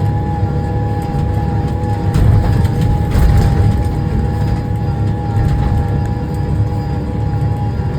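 Tractor engine and drivetrain running steadily under load while pulling a disc harrow, heard from inside the cab: a deep rumble with a constant whine over it.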